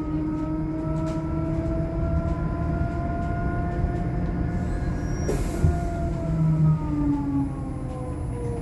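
Whine of the Eletra-converted Scania K310 electric bus's traction drive, rising in pitch as the bus gathers speed and falling again as it slows, over a steady road rumble. A brief sharp noise breaks in about five seconds in.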